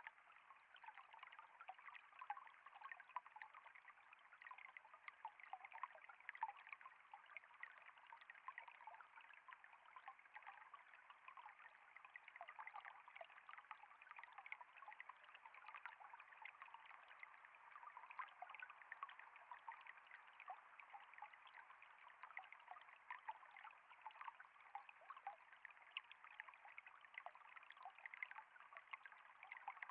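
Faint, steady trickling of flowing water: an even rush with many tiny splashes and drips throughout.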